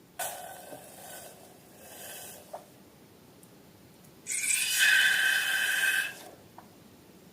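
Air escaping from a balloon's neck, hissing with a reedy squeal: a short release just after the start, then a longer, louder one of about two seconds a little past the middle.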